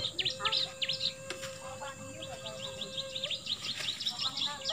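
Small birds chirping: many quick, high, downward-sweeping chirps, several a second, over a faint steady held tone.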